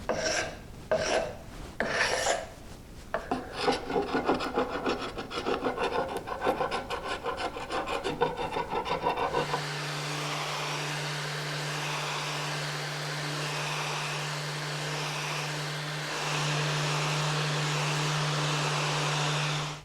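Wooden rods being sanded with 100-grit paper to strip old paint and sticker residue. There are a few separate rubbing strokes, then quick back-and-forth strokes, then about nine seconds from the end a steady machine hum with continuous abrasive hiss, a little louder near the end, as from a power sander.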